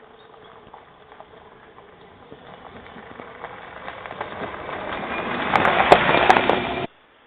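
Alke ATX 420E electric truck driving over rough ground, a rolling noise with many small clicks and knocks from tyres and chassis and no engine note. It grows steadily louder, is loudest near the end, then cuts off abruptly.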